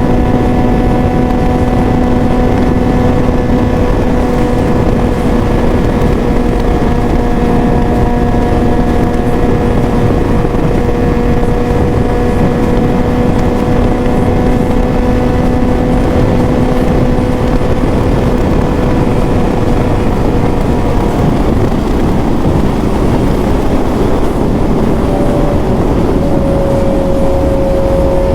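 Suzuki GSX-S750's inline-four engine running through a full aftermarket exhaust (Ezaki header, SC Project muffler), holding a steady note while under way, with heavy wind noise on the microphone. The steady note fades about two-thirds of the way through, and a new, slightly rising note comes in near the end.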